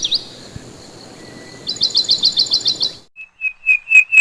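Bird song: two rapid trills of quick descending chirps, about eight a second, with a short pause between them. Near the end comes a run of short whistled notes on one pitch that grows louder.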